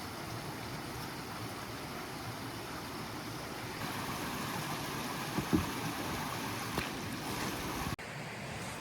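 Steady rush of a mountain stream flowing, with a couple of faint knocks and an abrupt cut about eight seconds in.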